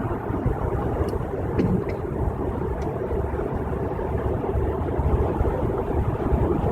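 Steady road and tyre noise inside a car cruising at highway speed, with a few faint ticks in the first few seconds.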